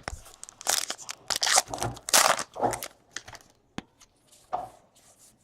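Trading card pack wrapper and cards being handled: a run of crinkly rustles, loudest in the first half, then a few short clicks.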